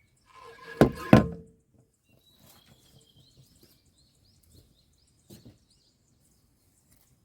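Two sharp knocks about a second in, each with a brief ringing tone, as the dirty water-tank filter is struck to shake loose debris that will not come off. A softer knock follows about five seconds in, and a small bird chirps in between.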